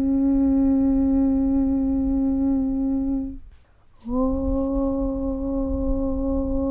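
A chanted 'Aum' hum held on one low, steady pitch over a low rumble. A little past three seconds in it breaks off. After a short pause a new 'Aum' begins, sliding up slightly into the same pitch, and is held to the end.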